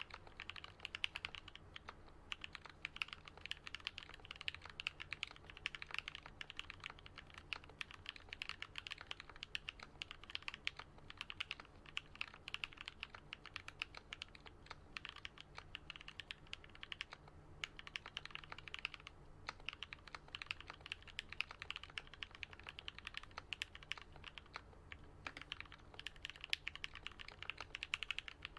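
Continuous fast typing on a Switch Couture Alice-layout custom mechanical keyboard with lubed, filmed Gat Yellow linear switches and lubed Durock stabilisers: a steady stream of deep keystroke thocks, broken by a few short pauses.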